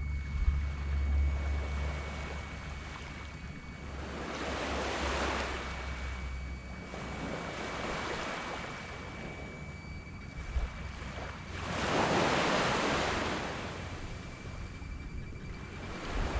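Small tropical surf breaking on a sandy beach in slow surges of hiss every few seconds, the loudest about twelve seconds in. A low rumble underneath fades out about three seconds in.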